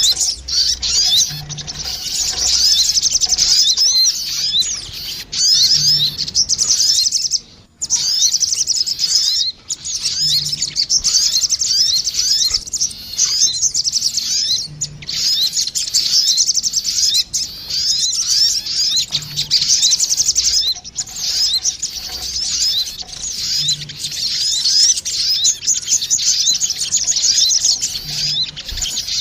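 Velvet-fronted nuthatches (sogon), a female and a male, calling back and forth in rapid, high-pitched chattering trills, almost without a break: a lure (pikat) call. Two short pauses come about a third of the way in.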